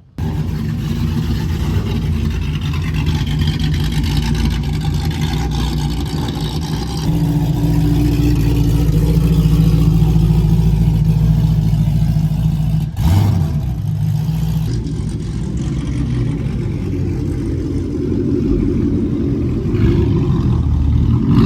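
Car engine revving and running hard at high revs, loud and sustained, with a brief break about thirteen seconds in.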